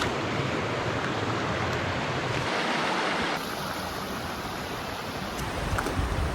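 Steady rushing of a creek flowing down a rocky gorge, with some wind on the microphone. About halfway through, the sound abruptly becomes a little quieter and duller.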